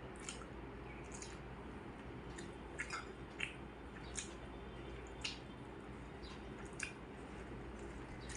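Close-up eating sounds: soft wet smacks and clicks of chewing, coming irregularly about once a second over a steady low hum.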